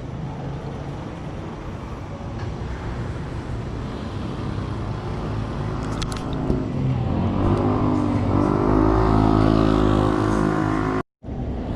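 Road traffic, with a motor vehicle's engine drawing near and getting louder over the last few seconds. The sound cuts off suddenly near the end.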